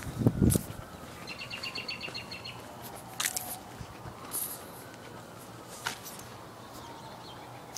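A bird gives a quick run of high chirps about a second and a half in, over steady outdoor background noise. Footsteps thump at the start, and a few sharp clicks follow later.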